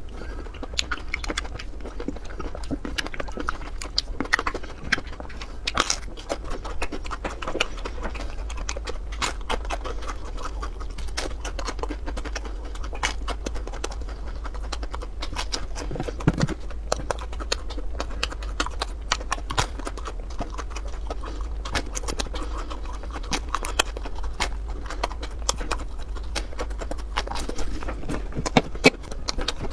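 Close-miked eating sounds: a crisp breaded fried cutlet crunching and food being chewed, with dense irregular crackles and clicks over a steady low hum. Near the end a fork scrapes noodles across a baking tray.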